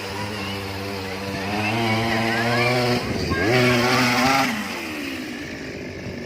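Small grass-cutter engine on a homemade four-wheeled cart running, revving up twice, first from about a second and a half in and again after a brief dip at about three seconds, then dropping back to a lower speed a little before the end.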